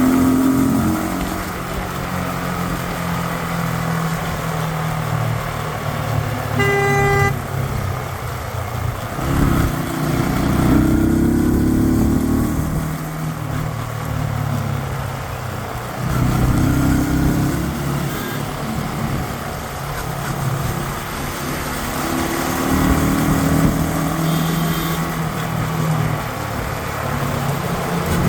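Yamaha MT-15 motorcycle engine under way, its pitch rising and falling again and again as the rider accelerates and eases off. A vehicle horn toots once, briefly, about seven seconds in.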